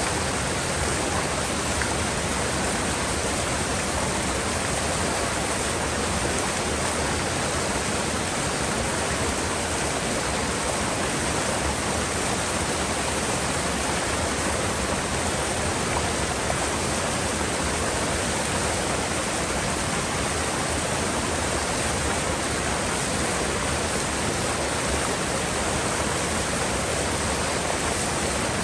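Mountain river rushing steadily through a gorge: an even, unbroken noise of flowing water with nothing else standing out.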